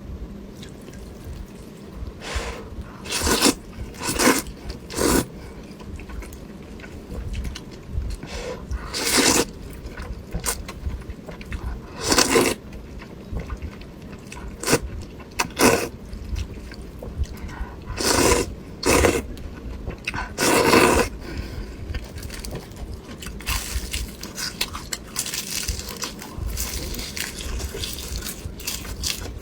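Close-up eating sounds of duck blood vermicelli soup: loud slurps of noodles and broth every second or few seconds, with quieter wet chewing and small clicks in between.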